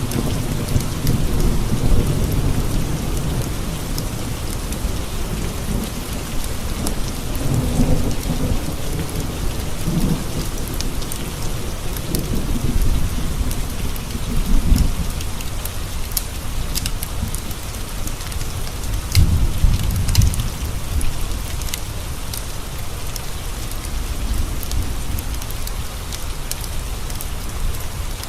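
Steady rain with thunder rumbling repeatedly, the heaviest roll about two-thirds of the way in, and scattered sharp crackles of a wood fire in a fireplace.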